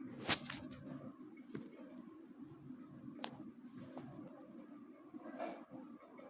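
A few sharp metallic clicks and knocks of tools and parts during work on a motorcycle's rear wheel, the loudest about a quarter second in, over a steady high-pitched insect-like trill.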